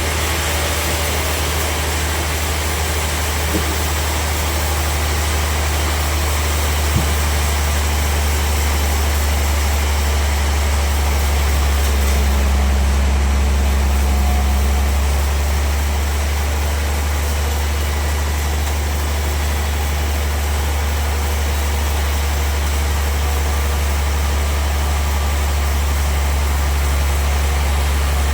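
Sawmill machinery running steadily, with a loud, constant low hum, plus two brief clicks in the first several seconds.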